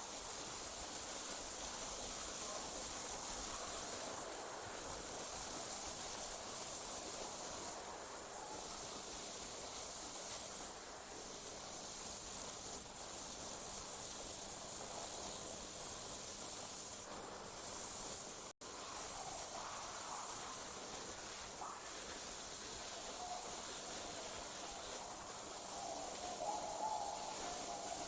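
Crickets trilling at night in a dense, continuous high-pitched chorus, with short breaks every few seconds. The sound cuts out for an instant about two-thirds of the way through.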